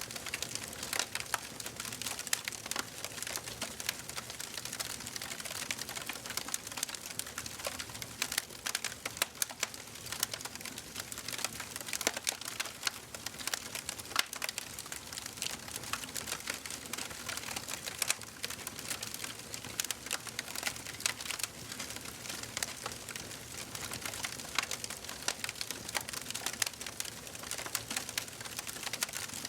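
Wood fire burning in a fireplace, crackling and popping steadily over a soft hiss.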